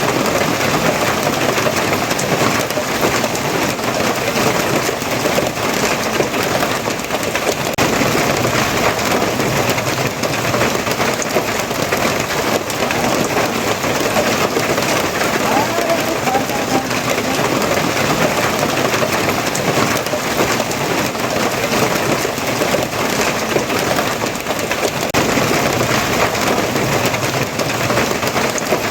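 Steady heavy rain, a dense, even patter that does not let up.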